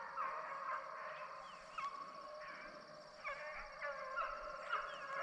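Pack of deer-hunting hounds baying, their short, wavering calls overlapping as they run a drive.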